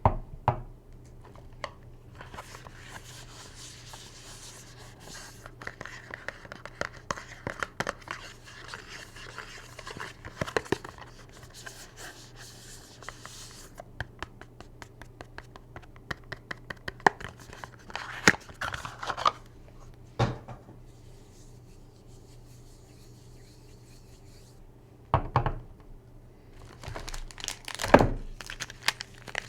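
Hands unwrapping bars of soap: packaging crinkling and tearing with dense crackling for the first half, then scattered clicks and a few sharper knocks.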